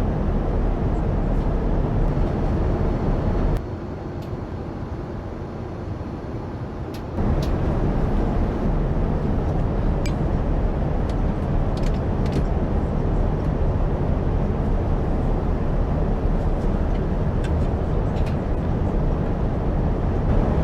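Steady airliner cabin noise in cruise inside a Boeing 787-9: a low rumble and hiss of engines and airflow. It drops quieter for about three and a half seconds, starting about three and a half seconds in, then returns. A few faint clicks come later.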